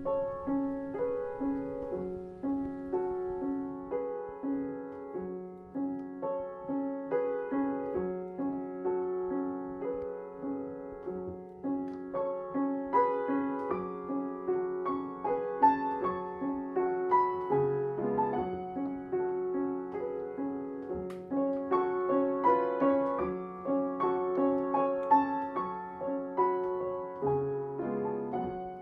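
Background piano music: a slow, gentle repeating pattern of notes, about two a second.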